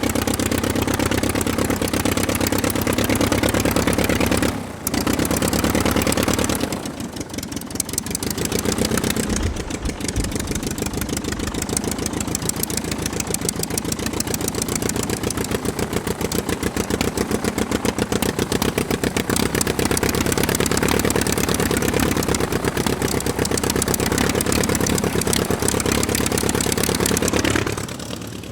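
Mini diesel engine running steadily with a fast, even firing beat. It cuts out for a moment about five seconds in, falters briefly a couple of seconds later, then keeps running and drops in level near the end.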